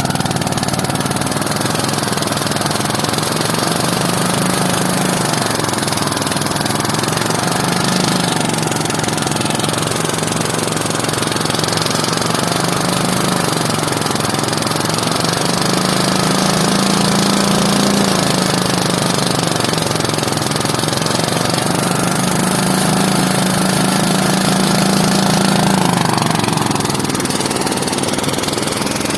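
A small engine running steadily, its pitch drifting slightly up and down.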